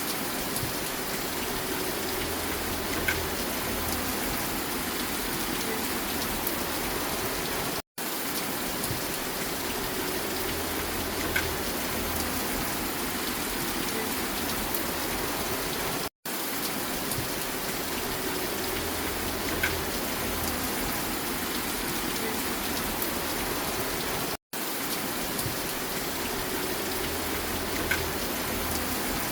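Steady rain falling, a short recording played on a loop: the sound drops out for a split second about every eight seconds.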